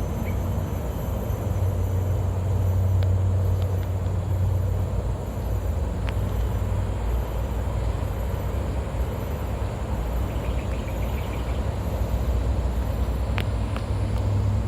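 Outdoor ambience: a steady low rumble with a faint, high-pitched chirp repeating at an even pace.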